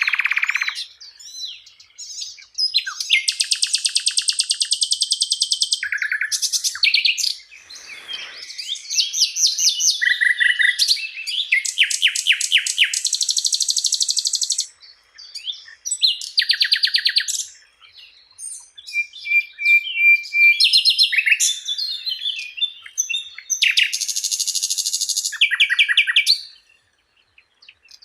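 A songbird singing a loud, varied song: phrases of fast, high trills and chirps, each lasting one to three seconds, with short pauses between them.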